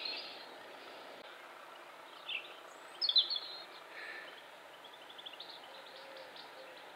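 Birds chirping over a steady background hiss: a few short, high calls, the loudest about three seconds in, and a quick run of faint chirps a little later.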